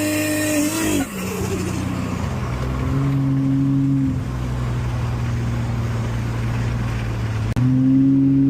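Ford Fairmont's engine, heard from the car while driving. It is held at high revs, then the revs fall about a second in as the throttle comes off. It settles into a steady lower cruising note with a brief slight rise, and near the end it jumps suddenly to a louder, higher note.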